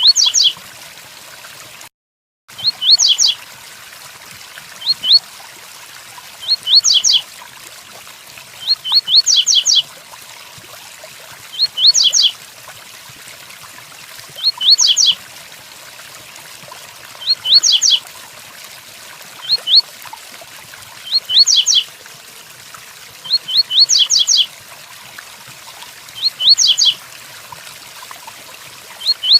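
Double-collared seedeater (coleiro) singing the 'tui tuí' song: short phrases of a few quick, high notes, repeated about every two to three seconds over a steady hiss of rain. The sound cuts out briefly about two seconds in.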